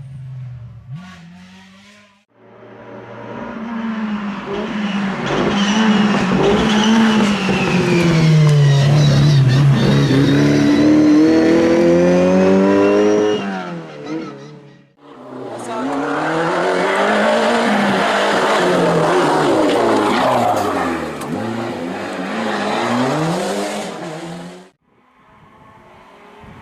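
Historic rally cars driven hard on a special stage, engines revving high and dropping back again and again through gear changes. There are two long loud runs, each cut off abruptly, with a quieter engine before and after.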